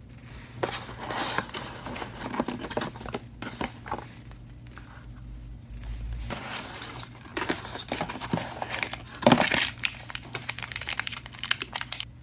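Tablet packaging being crinkled and handled by hand, in irregular bursts of crackling with a short lull around the middle and the loudest crackle about three quarters of the way through.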